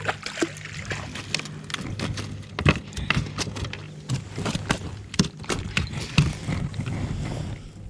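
Irregular clicks and knocks over a steady low hum.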